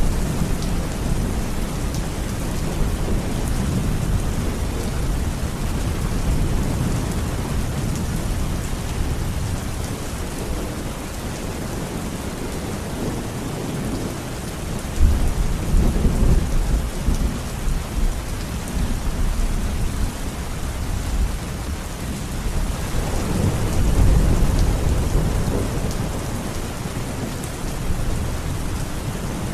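Steady rain falling, with rolls of thunder rumbling low; one thunderclap comes in suddenly about halfway through, and another swells up near the end.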